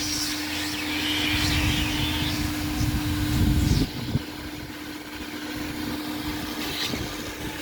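Car wash machinery running: a steady hum, with a low rumble that cuts off suddenly about four seconds in.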